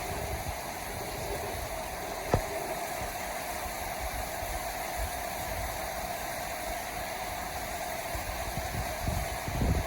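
Steady rain with wind, an even hiss, with one sharp click about two and a half seconds in and low rumbling gusts near the end.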